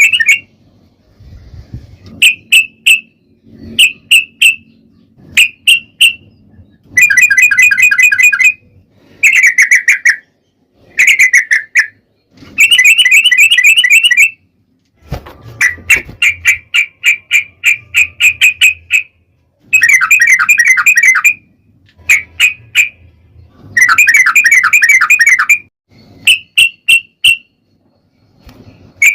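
Yellow-vented bulbul (trucukan) singing a loud, rapid-fire chattering song in repeated phrases of one to two seconds, broken by short pauses and a few brief two-note calls.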